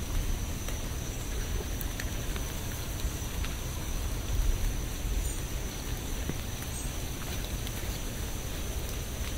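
Steady rain: an even hiss with a deep low rumble underneath and scattered faint drop ticks. A thin, steady high whine sits above it throughout.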